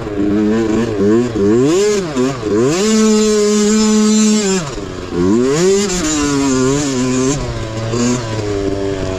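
Racing mini bike's small engine revving up and down as the throttle is opened and closed over rough ground. About three seconds in it is held at a high, steady pitch for a second and a half, then drops back to lower, uneven revs.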